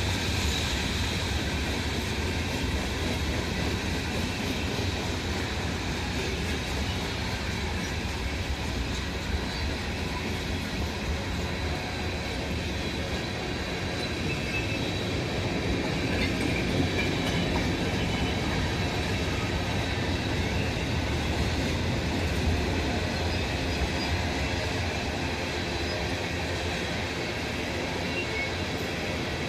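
Norfolk Southern freight train's cars rolling steadily past on the rails, with a faint high wheel squeal.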